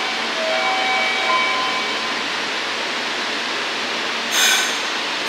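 Shinkansen train running: a steady rushing noise. A few short held tones sound in the first two seconds, and two brief high ringing sounds come near the end.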